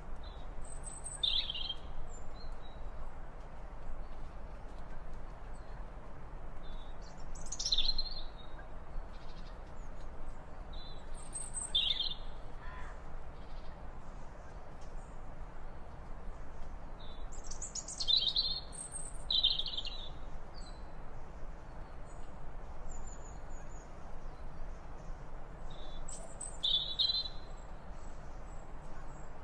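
Birds chirping: short, high calls coming every few seconds, some in quick pairs, over a steady background hiss of outdoor ambience.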